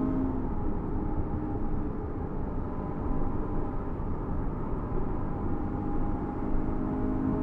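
2016 Scion FR-S's flat-four engine running at a steady pitch under throttle in fifth gear at about 105 mph, heard from inside the cabin over a heavy bed of wind and road noise.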